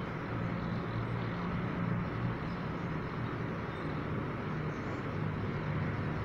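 A car engine idling steadily, heard from inside the parked car, with a constant low hum.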